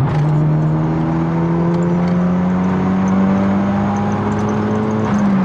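Turbodiesel car engine pulling under acceleration, its note climbing slowly and steadily, then dropping briefly near the end as a gear is changed.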